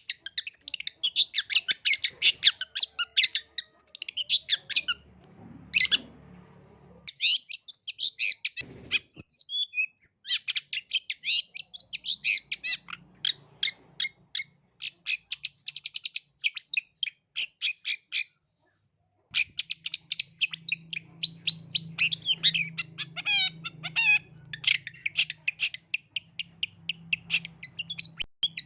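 Long-tailed shrike (cendet) singing a fast, chattering song of sharp, high, clipped notes, packed closely together. The song breaks off for under a second about two-thirds of the way through, then resumes.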